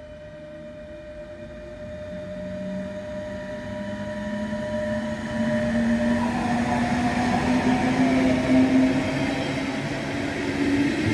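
A train approaching, growing louder through the first half and then running loud close by. A steady whine and a low drone that rises slightly in pitch run throughout.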